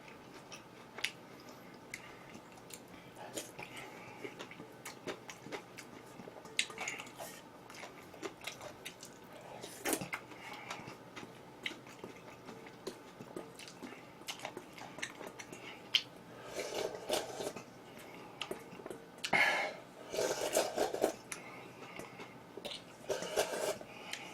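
A person chewing food, with many short scattered clicks and small bursts that grow busier in the last several seconds.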